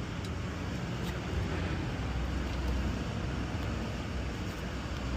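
Box truck running with a steady low engine and road rumble, heard from inside the cab.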